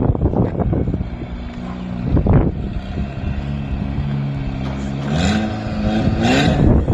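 Turbocharged Eagle Talon's engine running with its exhaust not yet clamped on, revving up twice in the last couple of seconds, the pitch rising each time with a burst of hiss.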